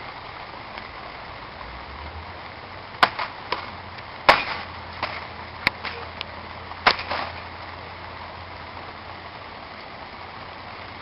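Steady rain, with about ten sharp taps scattered between three and seven seconds in, the loudest about four seconds in.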